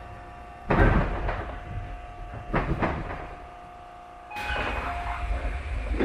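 Tobu 30000 series electric train standing at a station over a steady electrical hum: two sudden loud knocks about 0.7 s and 2.6 s in, then a longer rushing noise from about 4.4 s, typical of doors working and air being released.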